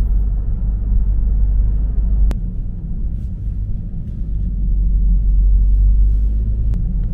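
Car road and engine noise heard from inside the cabin while driving: a steady low rumble, with a faint tick about two seconds in and another near the end.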